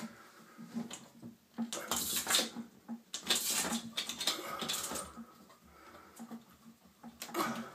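A bird scrabbling and fluttering inside a ceiling exhaust vent: scratching and rattling against the duct and vent cover in irregular bursts.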